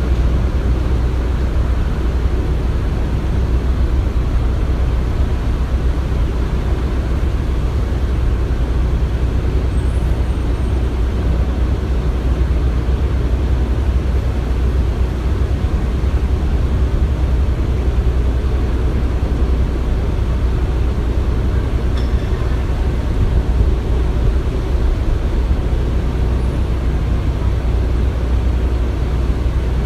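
Construction-site ambience: a steady, unchanging low engine rumble of heavy machinery, with no distinct knocks or impacts.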